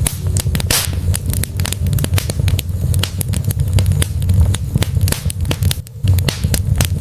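Wood fire burning in a fireplace: dense, irregular crackles and pops over a steady low rumble of the flames, with a brief lull near the end.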